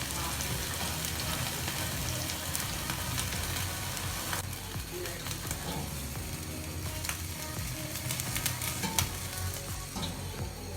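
Oiled, marinated chicken pieces sizzling on a hot grilling stand over a stove burner, with a steady hiss and scattered pops of spattering oil.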